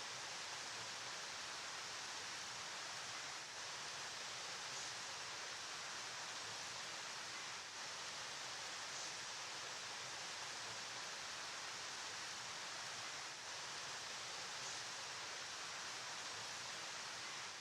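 River water flowing, a steady, even rushing hiss with no distinct splashes or changes.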